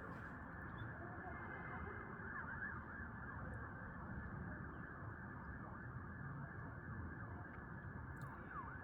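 Distant emergency-vehicle sirens wailing, their rising and falling tones overlapping, over a steady low rumble of city background.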